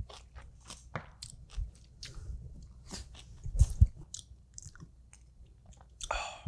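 Close-miked chewing of a mouthful of gomae, blanched spinach with sesame dressing: a run of soft, wet mouth clicks. Two louder low knocks come about three and a half seconds in, and a short noisy burst near the end.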